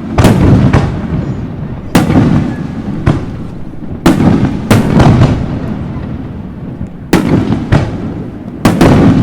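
Aerial firework shells bursting overhead: a run of about ten sharp bangs, some in quick pairs, each trailing off in a low rumbling echo.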